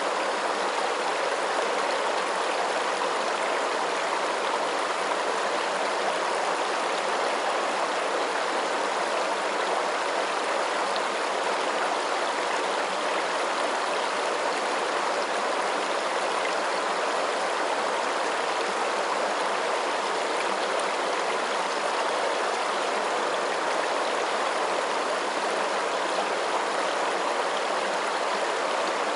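Running water, a steady, even rush of noise that does not change.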